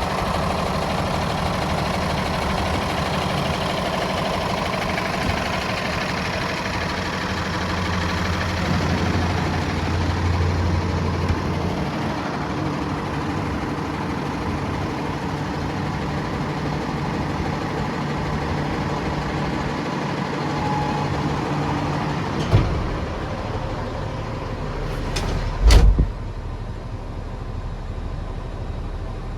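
The 2020 Kenworth T370's 8.9 L PACCAR PX-9 diesel engine idling steadily. A sharp knock comes near the end, then a louder thump, after which the engine sound drops away.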